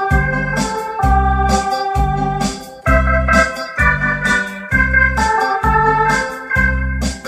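Electronic organ playing the melody of a Korean trot song, with held notes over its built-in disco-trot rhythm accompaniment. The bass notes and drum hits come about twice a second.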